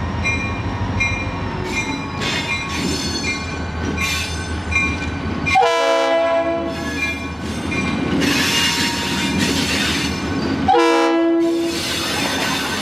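Diesel freight locomotive rumbling while a bell rings steadily. The locomotive's air horn sounds two chord-like blasts, about six and eleven seconds in.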